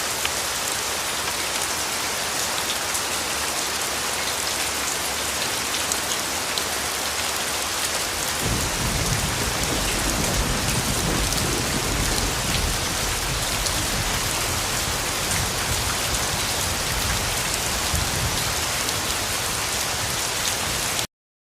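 Steady rain falling, with a low rumble joining in about eight seconds in; the sound cuts off suddenly near the end.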